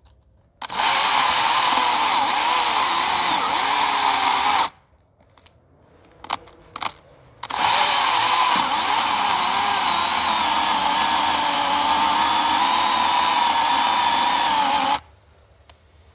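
Husqvarna 120i battery chainsaw's electric motor cutting through hardwood in two long runs, about four and seven seconds long, with a steady high whine whose lower pitch wavers as the load changes. Two brief blips of the motor come between the runs.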